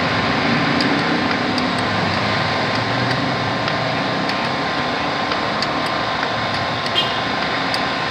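Steady rushing mechanical background noise, like a running engine or machinery nearby, with a few faint clicks and a small knock about seven seconds in.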